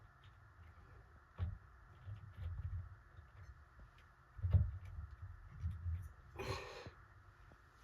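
Handling noise from work on a ceiling fan's switch housing and wiring: dull knocks about a second and a half in and again about four and a half seconds in, and a short scraping rustle about six and a half seconds in.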